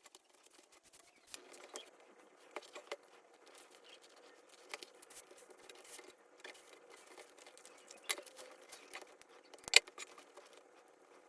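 Scattered light clicks, taps and rustles of hands handling small objects, irregular and quick, with one sharper click near the end.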